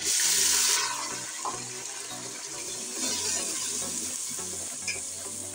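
Tomato puree poured into hot oil and fried onions in an aluminium pot, hissing loudly for the first second, then settling into a steady sizzle.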